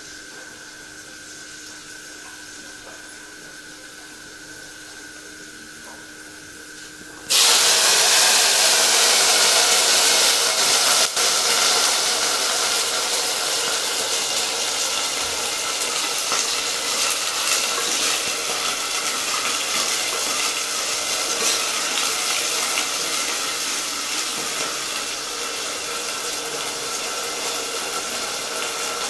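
Wet, freshly washed ivy gourd (tindora) pieces go into hot oil in a steel pot: a sudden loud sizzle starts about seven seconds in and slowly eases off.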